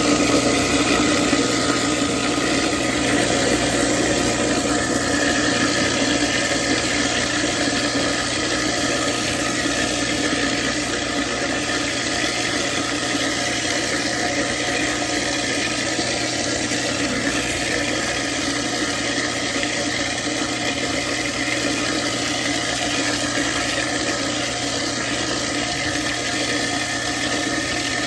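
Kitchen sink garbage disposal running steadily with cold tap water flowing into it: a steady motor hum under the rush of water.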